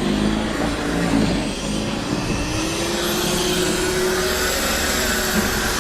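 A motor running steadily, with a hum that rises a little in pitch about two and a half seconds in and then holds.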